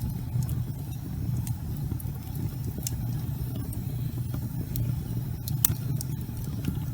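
Wood fire burning in a fireplace: a steady low rumble of flames with scattered sharp crackles and pops, the loudest pop near the end.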